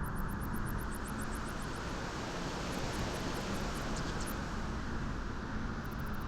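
Steady wind blowing: a continuous, even rush of noise with a low rumble underneath.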